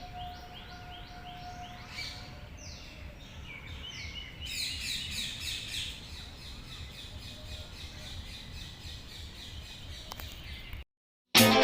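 Birds calling in quick runs of short repeated chirps, several at once from about four and a half seconds in, over a low rumble. The sound cuts off near the end, and loud music starts just after.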